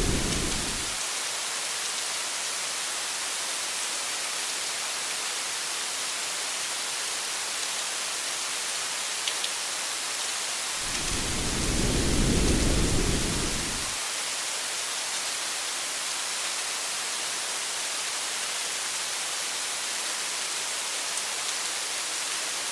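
Steady rain hiss, with a low rumble of thunder fading out in the first second and another rolling through from about 11 to 14 seconds in.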